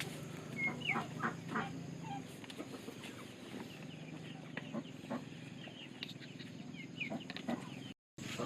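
Chickens clucking in short calls, a cluster about a second in and another near the end, with a brief drop-out to silence just before the end.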